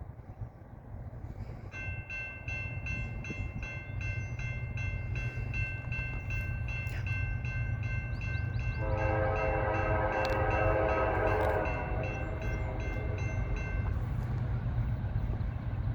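Grade-crossing warning bell ringing rapidly and steadily from about two seconds in, while an approaching diesel freight train's locomotive horn sounds one long chord blast around the middle. A low rumble from the oncoming train builds underneath.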